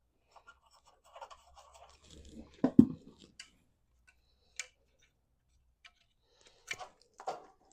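Hand work on metal parts: scattered light clicks and scrapes, with a louder knock about three seconds in and a couple more knocks near the end.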